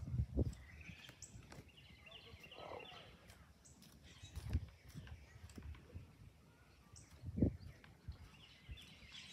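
Birds chirping in the background, with three dull low thumps; the loudest thump comes about seven seconds in.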